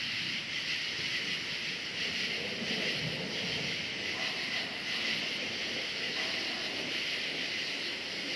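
Crickets chirping in a steady, dense chorus, with a low rumble of thunder swelling about three seconds in.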